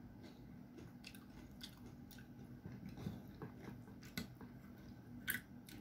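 Quiet chewing of a mouthful of food, with a few sharp little clicks of a spoon and fork against the dishes.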